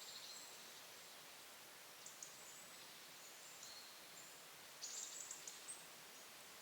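Small woodland songbirds giving short, high, thin calls over a faint steady hiss of forest ambience, with a brief flurry of calls about five seconds in.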